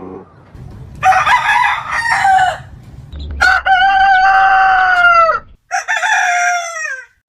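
Roosters crowing: three loud crows one after another, the second the longest, the last two ending in a falling tail.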